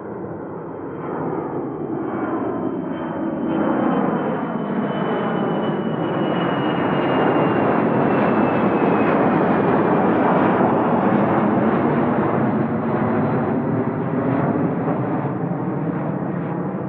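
Jet airliner passing close by, its engine noise building to a peak midway and easing off again, with a high whine that slowly falls in pitch as it goes past.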